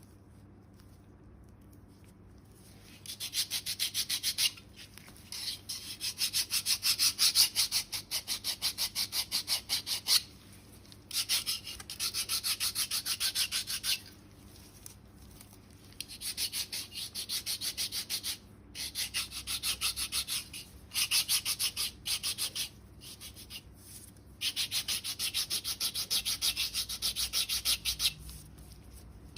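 A foot file rasping against the hard, dead skin of a sole in quick back-and-forth strokes, several a second, in bursts of a few seconds with short pauses between them, filing down callused skin.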